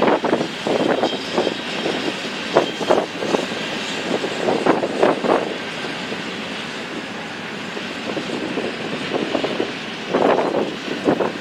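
Railroad cars rolling past, their wheels clacking over the rail joints in small groups over a steady rumble.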